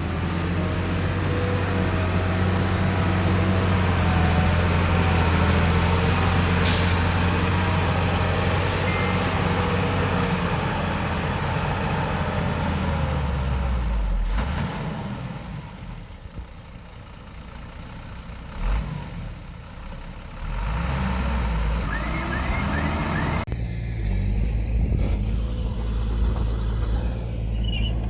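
Heavy diesel machinery at work: a steady low engine drone that drops away about 14 s in, with a sharp click about 7 s in and a knock near 19 s. The engine sound comes back louder from about 20 s.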